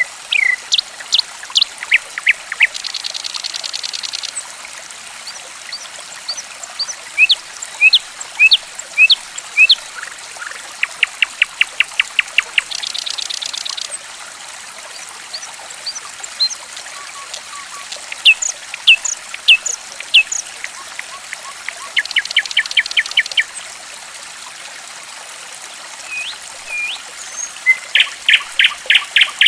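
A songbird sings over a steady trickle of running water: loud, sharp whistled notes that sweep down in pitch, fast trills of evenly spaced notes, and a few short buzzy rasps. It is a lure recording, played so that caged birds that have gone quiet will answer.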